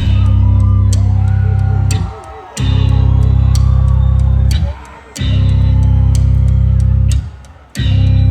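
Live rock band playing heavy: a bass guitar holds thick low notes of about two seconds each, with short gaps between them, under regular drum and cymbal hits.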